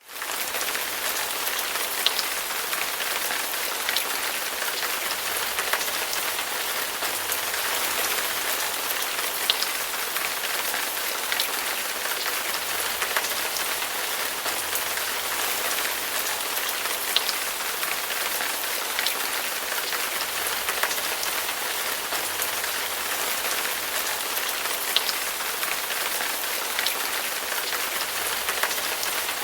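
Heavy rain falling steadily, a dense hiss with scattered sharper drop impacts, starting abruptly.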